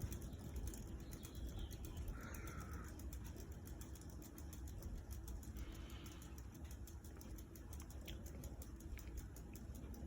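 Harbor Breeze Calera all-weather ceiling fan running on high: a faint, steady low hum that gently rises and falls. A couple of faint, short, higher-pitched sounds come about two and six seconds in.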